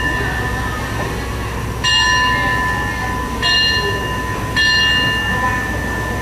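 A bell is struck three times, each stroke ringing out with bright overtones and dying away over about a second, above a steady low rumble of a train standing at the station.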